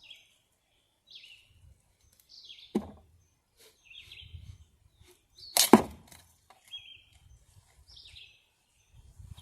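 A bird calling over and over, short falling chirps about once a second, with two sharp knocks, the louder one just past the middle.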